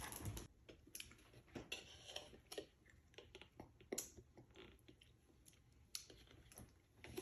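Faint eating sounds: chewing with scattered small clicks and crunches.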